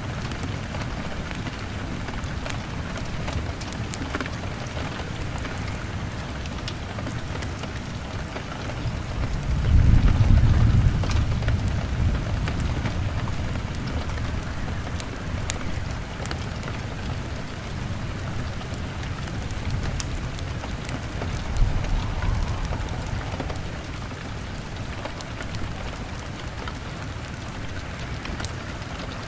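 Steady rain beating on a window, with scattered sharp ticks. A deep rumble of thunder swells about ten seconds in and is the loudest moment, and a weaker one comes near the end.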